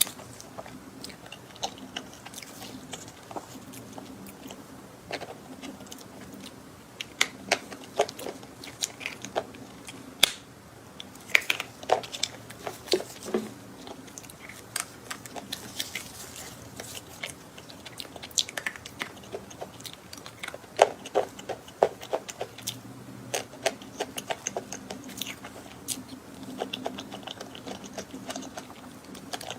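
Close-miked eating of cream desserts: a person biting and chewing, with many irregular sharp wet clicks and smacks, in denser clusters at a few points.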